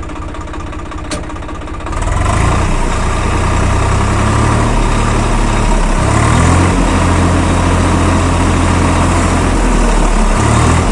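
Swaraj 742 XT diesel tractor engine idling with a light click about a second in, then running louder at higher revs from about two seconds in.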